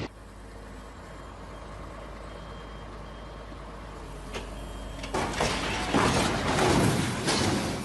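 Heavy truck running with a low steady hum and faint beeping, then loud noisy rushing and crashing bursts from about five seconds in.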